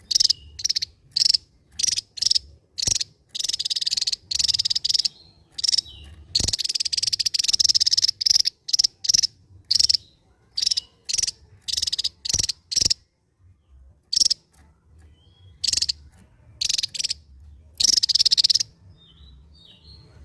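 Javan tesia singing: a run of short, sharp, high-pitched notes broken by three longer rattling, drill-like trills. There is a brief pause about two-thirds of the way through.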